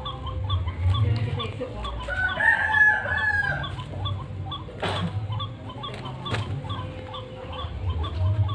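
Watercock (truwok) calling: bouts of repeated deep, low booming notes, with a louder, higher drawn-out call about two and a half seconds in.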